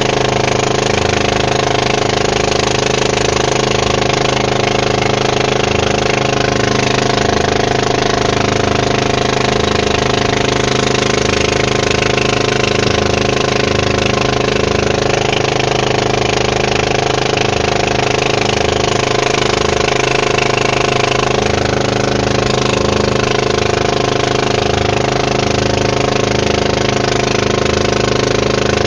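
Boat engine running steadily at a constant speed, with no change in pitch throughout.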